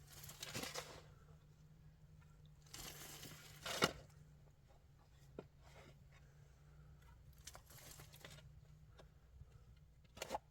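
Intermittent crunching and rustling handling noises in several short bursts, with a sharp knock just before the four-second mark and another near the end.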